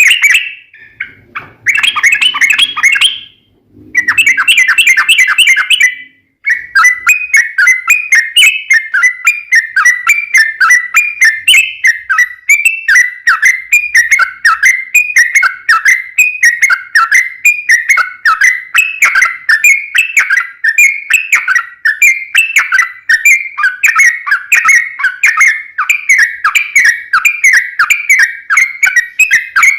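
Yellow-vented bulbul (trucukan) song: rapid bubbling chattering phrases. The first few seconds hold short bursts with pauses between them; from about six seconds in comes one long unbroken run of fast repeated notes, the long 'ropel' song played as a lure.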